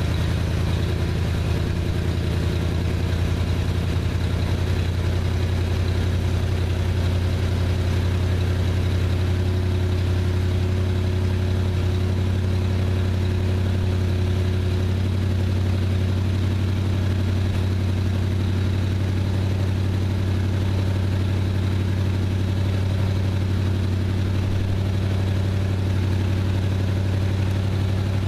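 1966 Chrysler 300's big-block V8 idling steadily after a sub-freezing cold start, running on its automatic choke.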